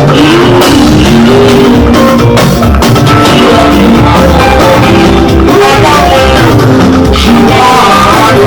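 Loud live band music with a lead singer's voice gliding over drums and instruments.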